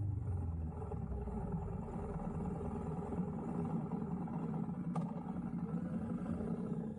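Low, steady rumble with a single sharp click about five seconds in.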